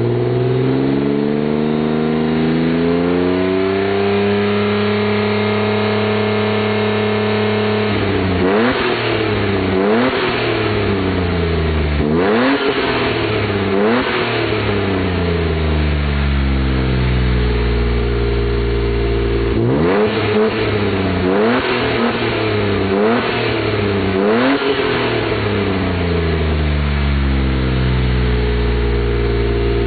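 Mercedes-Benz W124 300CE straight-six heard through its newly made center and rear mufflers: revs falling back to idle, then two runs of quick throttle blips, each rising sharply and dropping back, with steady running in between.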